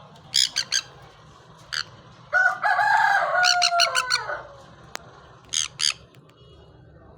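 White ringneck parakeet screeching: short, harsh, high calls in quick clusters, with a longer, lower, wavering call from about two seconds in that lasts about two seconds.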